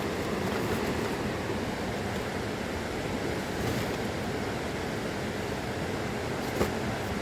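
Steady rushing of a mountain river, with one short sharp click near the end.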